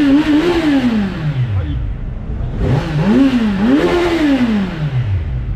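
Kawasaki motorcycle engine being revved. The pitch falls away from a high rev in the first second and a half, then climbs twice in quick succession about three seconds in and drops back down.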